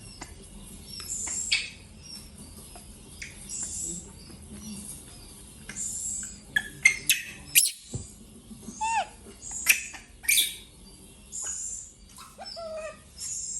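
Short high animal chirps recurring every couple of seconds, with a flurry of sharp squeaks and clicks in the middle and a few short falling squeals.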